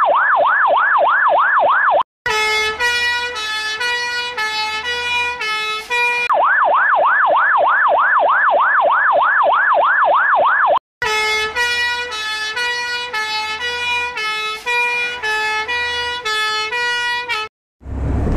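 Fire engine electronic siren, switching between a fast yelp of about four to five up-and-down sweeps a second and a stepped pattern of short notes jumping between pitches, twice each in turn. Just before the end it cuts out briefly and gives way to a steady hiss.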